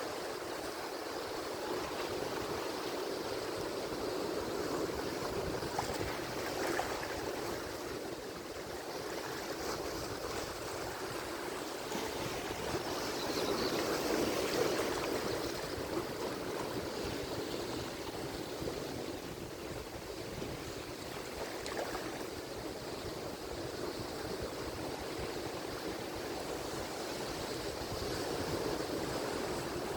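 Ocean surf: a continuous wash of breaking waves that swells to its loudest about halfway through.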